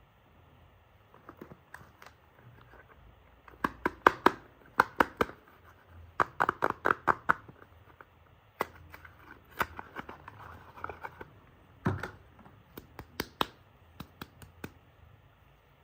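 Soap packaging being unwrapped by hand: the wrapper crackles and tears in bursts of sharp clicks, with a quick run of crackles about six seconds in and a single duller knock near twelve seconds.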